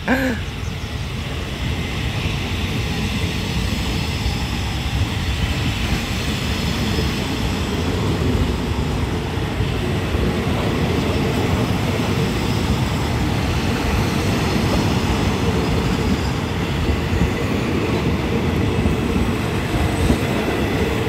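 State Railway of Thailand passenger train (Rapid 135) pulling out, its carriages rolling past close by: a steady rumble and clatter of wheels on the rails, growing a little louder after several seconds.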